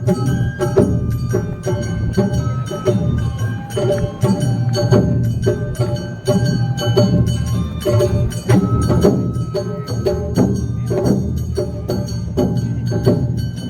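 Awa Odori festival band music: taiko drums and a clanging kane hand gong beating a steady, brisk rhythm under a shamisen and shinobue flute melody.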